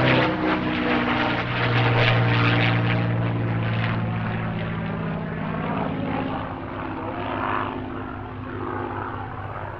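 Supermarine Spitfire Mk IX's Rolls-Royce Merlin V12 engine running in a flypast, a steady propeller-engine drone that slowly fades as the aircraft moves away.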